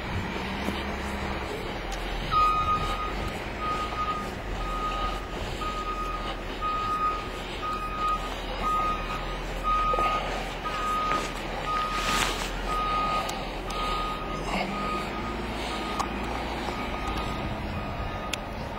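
A vehicle's reversing alarm beeping at a steady single pitch about once a second, starting about two seconds in, over the low rumble of an engine running.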